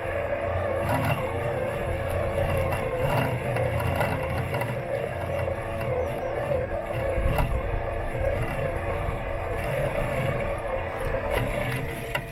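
Robot lawn mower running close up, its electric motors giving a steady, slightly wavering whine over a low rumble, with scattered small knocks and clicks as it drives over the lawn.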